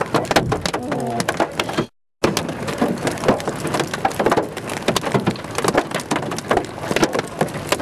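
Rain mixed with hail striking nearby surfaces in a dense, irregular patter of sharp ticks. The sound drops out completely for a moment about two seconds in.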